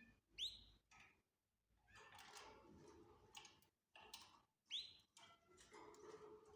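Faint canaries calling: soft, scattered chirping and chatter, with two short rising call notes, one about half a second in and one near five seconds in.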